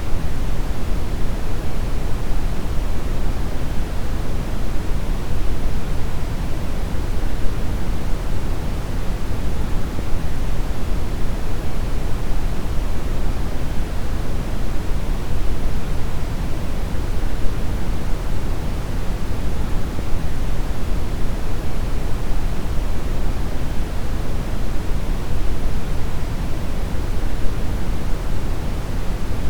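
Synthetic brown noise: a steady, deep rumbling hiss, strongest in the bass and falling off toward the treble, unchanging throughout.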